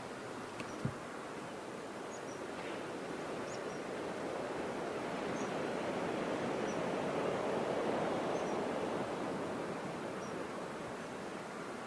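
Surf washing at a river mouth, a steady rushing that swells and eases once, with faint, short high bird chirps scattered through it. A single sharp tap sounds about a second in.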